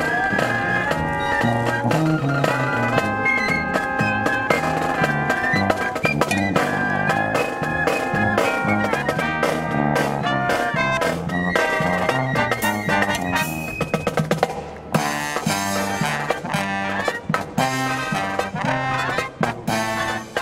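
Live marching brass band playing a jazzy tune, with trumpets and trombones over a steady drum beat. The music briefly dips in volume about fifteen seconds in, then carries on.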